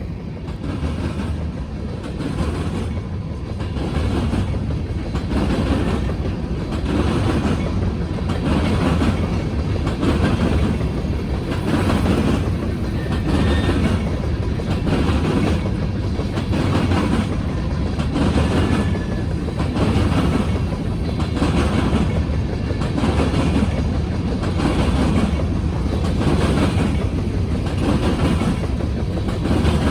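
Freight cars of a Norfolk Southern grain train rolling past, their wheels clacking over the rail joints in a steady repeating rhythm over a low rumble.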